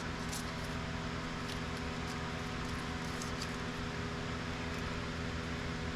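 Steady machine hum of room ventilation, with several steady low tones under an even hiss, and a few faint light clicks from handling.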